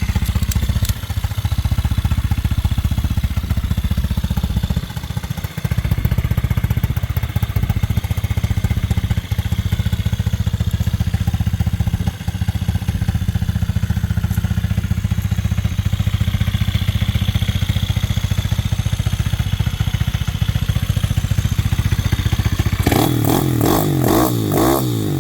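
A 160cc four-stroke single-cylinder pit bike engine running steadily, with a couple of brief dips. Near the end its pitch rises and falls as it is revved.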